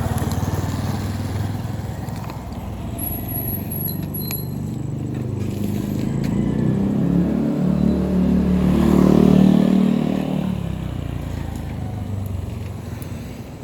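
Motor vehicle engine running, growing louder to a peak about nine seconds in and then fading again.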